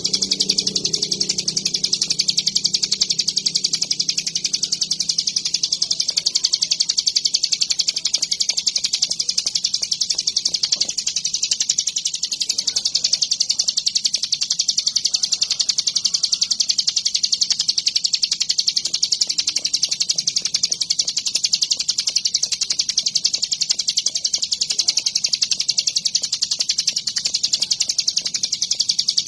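Ciblek gunung, a prinia, singing on without pause: a fast, high-pitched, chattering song of rapidly repeated notes at an even level.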